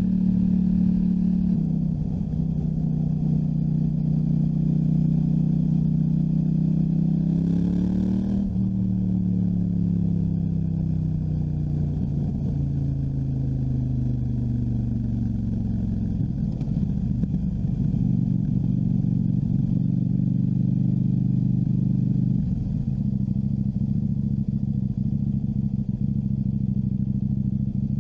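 KTM 790 Duke's parallel-twin engine on the move. Its pitch climbs under throttle, drops sharply at a gear change about eight seconds in, then falls away slowly as the bike slows, before settling to a steady cruise.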